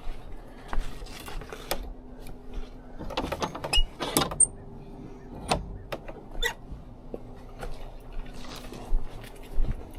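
Scattered clicks and knocks of things being handled, bunched together a few seconds in, over a faint steady hum.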